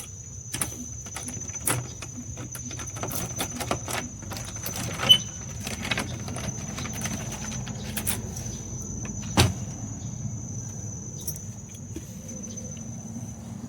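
Insects trilling steadily at one high pitch, with scattered clicks and knocks over a low rumble of handling, the sharpest knock about five seconds in and another about two-thirds of the way through.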